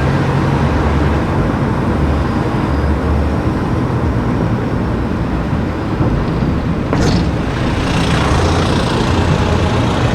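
Steady road and engine noise of a car driving, with a short, sharp hiss about seven seconds in.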